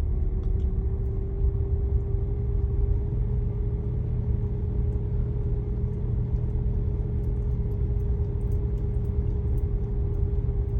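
A vehicle's engine running at low speed as it wades slowly through floodwater: a steady low rumble with a constant hum.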